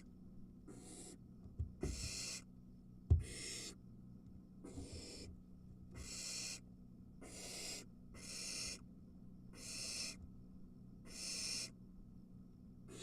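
Barn owl nestlings giving their hissing begging calls, roughly one drawn-out hiss every second or so. A few soft knocks and one sharp thump about three seconds in, from movement in the nest.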